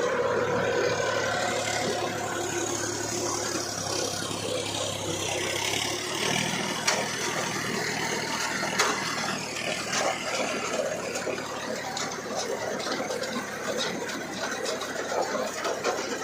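Tractor diesel engine running steadily, its note shifting about six seconds in, with a few sharp knocks.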